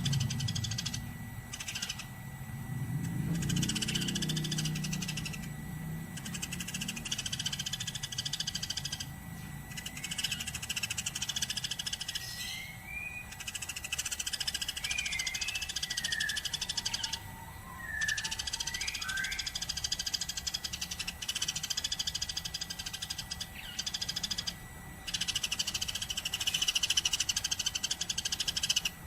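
Eurasian tree sparrows (burung gereja) chirping in a fast, continuous chatter, in stretches of a few seconds broken by short pauses. A few lower sliding notes come in between.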